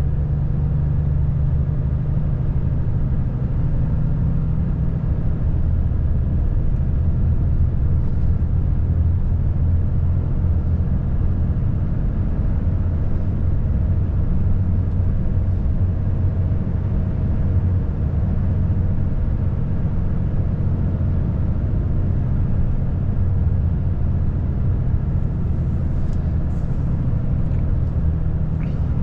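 Volvo FH540 truck's 13-litre inline-six diesel engine running steadily under way, a low even rumble.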